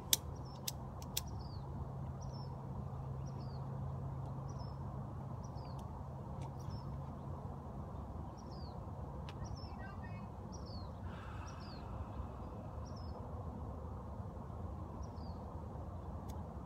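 A small bird repeating a short, falling chirp about once a second over a steady low background hum, with a few sharp clicks in the first second or so.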